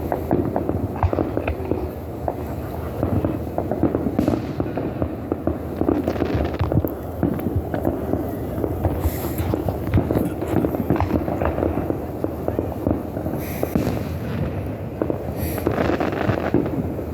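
Fireworks exploding in a dense, continuous barrage of rapid pops and crackles, with scattered sharper crackling bursts.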